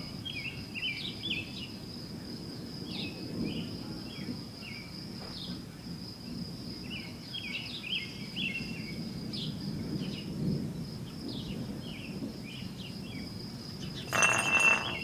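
A distant, low, constant roar that sounds almost like thunder, swelling softer and louder, of unidentified origin. Over it runs a steady high insect drone with scattered bird chirps, and a brief louder noise comes near the end.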